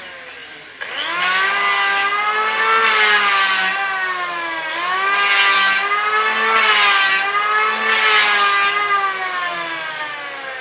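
Power wood planer motor running with a pitched whine that jumps up in level and pitch about a second in. Five bursts of cutting hiss follow as the wood is fed through the blade, and the machine slows and fades near the end.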